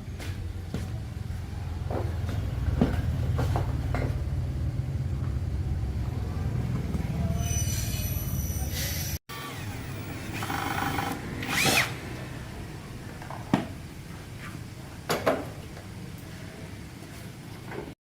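A motor hums steadily with scattered knocks, then cuts off abruptly about nine seconds in. Intermittent knocks and clatter follow.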